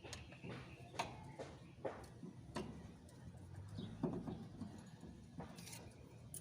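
Scattered light clicks and knocks, about half a dozen spread over a few seconds, of hand tools and metal parts being handled during hands-on work on an engine that is not running.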